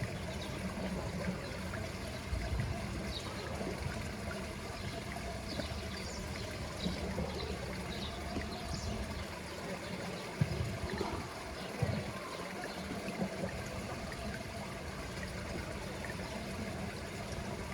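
Pool water trickling steadily, with faint high chirps and two brief low knocks near the middle.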